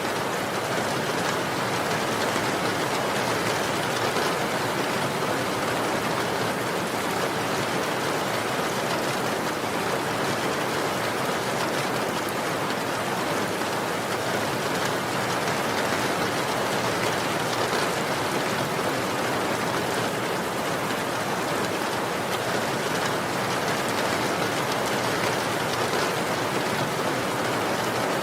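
Steady, even rainfall: a continuous dense hiss of rain with no distinct drops or changes.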